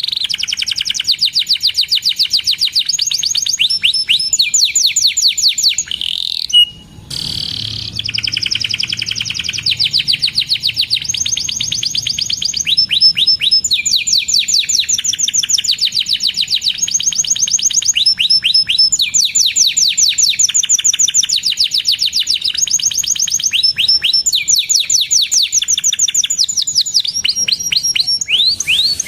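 Domestic canary in full song: a long, unbroken run of fast rolling trills, each phrase a rapid string of repeated notes, switching to a new phrase every second or two. The song breaks off briefly about six seconds in, then carries straight on.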